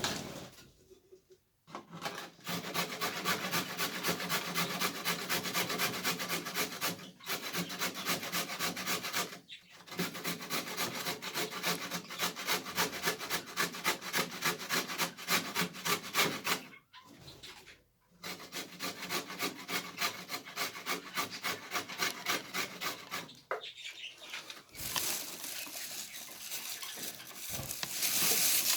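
Rhythmic rasping scrapes, several a second, in long runs broken by a few short pauses: a budgerigar's beak scraping and gnawing on wood.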